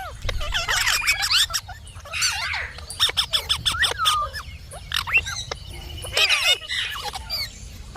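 Indian ringneck parakeet chattering: a quick run of short swooping calls and whistles, rising and falling in pitch, mixed with sharp clicks.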